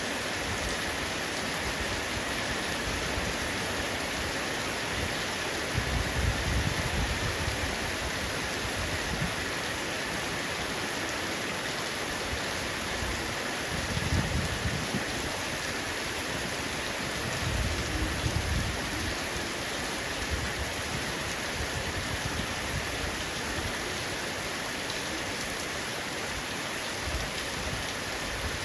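Heavy rain falling steadily on a roof, an even hiss of drops, with three brief low rumbles along the way.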